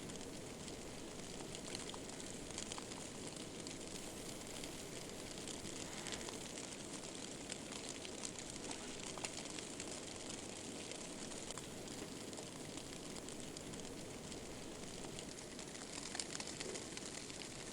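Steady outdoor wind hiss in a snowstorm, with scattered faint ticks.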